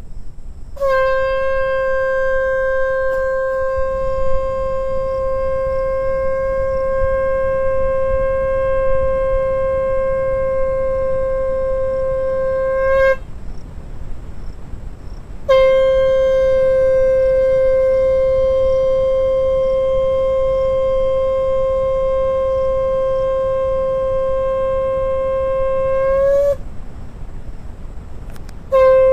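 A conch shell (shankh) is blown in long, steady held blasts at one pitch. There are two blasts of about eleven to twelve seconds each, with a short pause between them, and a third begins near the end.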